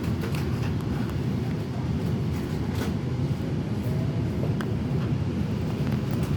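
Steady low rumble of a vehicle in motion, with a few faint clicks over it.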